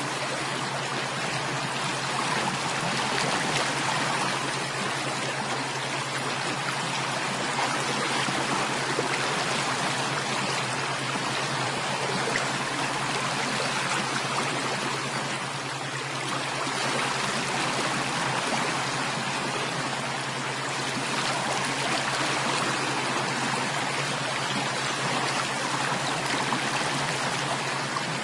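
Running water of a stream, flowing steadily with a constant rushing and trickling.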